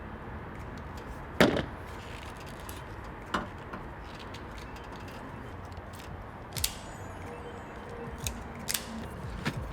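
Scattered sharp clicks and knocks of hands handling tools and small wiring parts, the loudest about a second and a half in, over a steady low hum.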